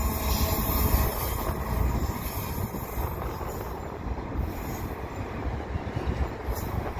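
Canadian Pacific freight train passing: the lead diesel locomotives' engines run by with a deep, heavy sound, then after about two seconds it eases to the steady rolling noise of the container cars' wheels on the rails.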